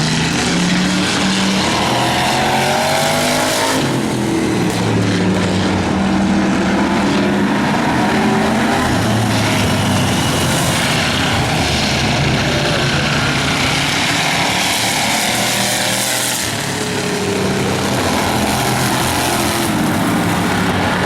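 Several demo race cars' engines running hard on the track, their pitches rising and falling as they accelerate and lift off.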